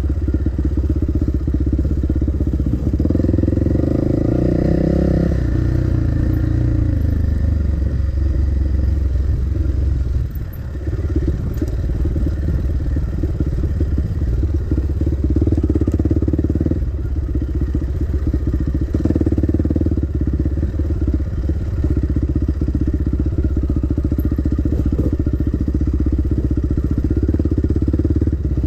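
Dirt bike engine running under changing throttle. The revs rise and fall a few seconds in, it drops off briefly about ten seconds in, then it runs on with small changes in revs.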